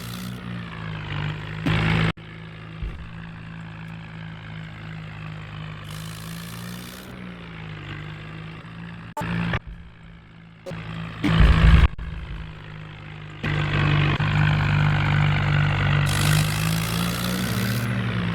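Swaraj 744 tractor's diesel engine running with a steady drone. It gets clearly louder about two-thirds of the way through, with a few abrupt jumps in level along the way.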